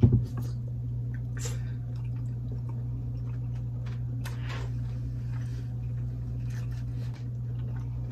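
Close-up wet chewing and lip-smacking on a mouthful of braised oxtail, with scattered soft clicks and squishes. A loud thump comes right at the start as the bite is taken, and a steady low hum runs underneath.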